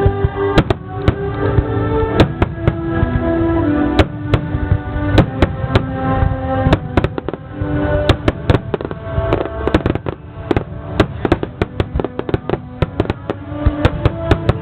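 Starmine fireworks barrage: many shells bursting with sharp bangs in quick, irregular succession, coming thickest in the second half, over music playing from the show's loudspeakers.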